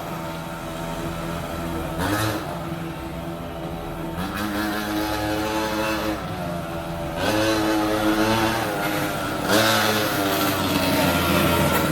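Small two-stroke gasoline engine of an HSP 1/5-scale RC monster truck running and being throttled up and down. Its pitch rises and falls several times and it gets louder about seven seconds in.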